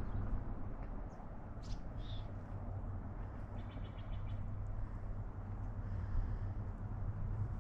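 Outdoor ambience: a few short bird chirps over a steady low rumble, with a quick rapid trill about three and a half seconds in.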